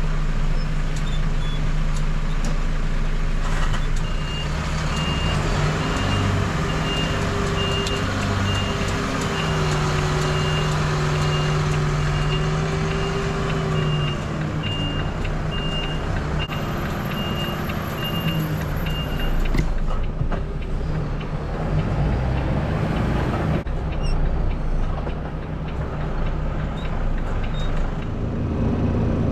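Volvo FE 320 lorry's diesel engine running while the truck manoeuvres, its pitch rising and falling, with the reversing alarm beeping at a steady rate from about four seconds in until roughly two-thirds of the way through.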